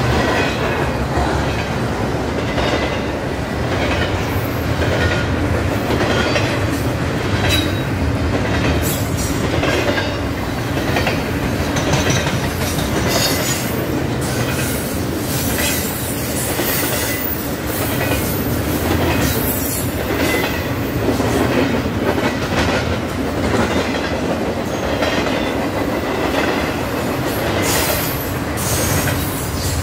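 Freight cars of a BNSF intermodal train rolling steadily past at track level, the wheels clacking over rail joints with occasional faint squeal.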